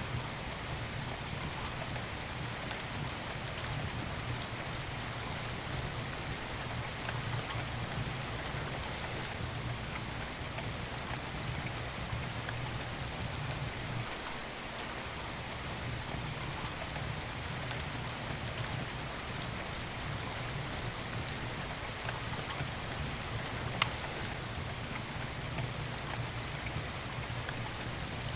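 Steady rain falling, mixed with the small crackles of a wood fire in a fireplace, and one sharp pop late on.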